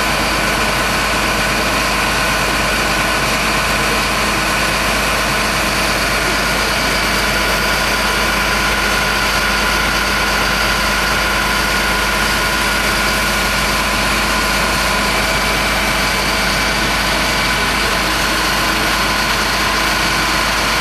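Truck engine idling steadily, a constant loud drone with a few steady whining tones over it and no change.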